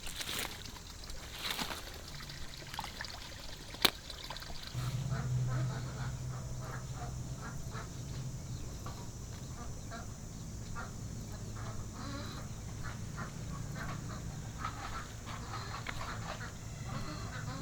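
Domestic fowl, sounding like ducks, calling in many short notes, over a low steady hum that starts about five seconds in. There is a single sharp click just before the hum.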